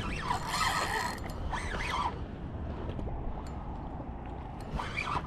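Fishing reel being cranked to bring in a hooked jack: mechanical clicking and whirring from the reel's gears, with a few short creaks in the first couple of seconds.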